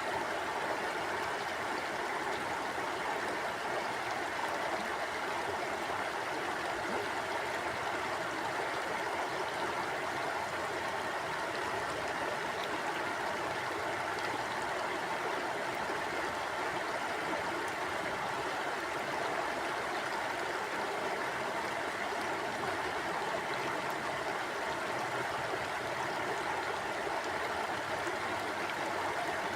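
Mountain stream flowing over rocks: a steady rushing of water, strongest in the middle range, without change or distinct splashes.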